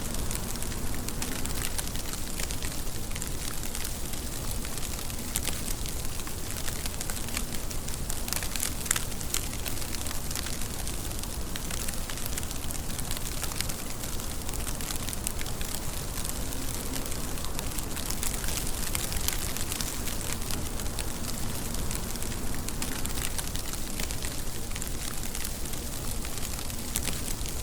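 Steady rain: a continuous hiss with many small, sharp drop taps on a surface.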